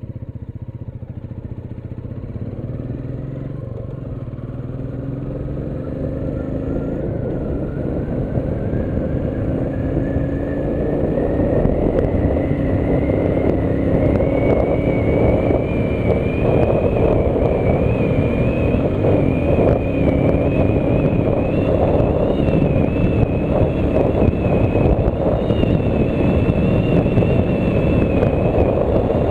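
Royal Enfield Meteor 350 single-cylinder engine accelerating hard on an open run, its pitch rising for the first half and then holding at high speed. Wind rush on the microphone grows louder as the speed builds.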